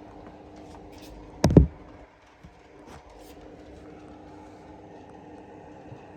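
A single sharp knock about one and a half seconds in, with a few faint clicks, over a steady low hum.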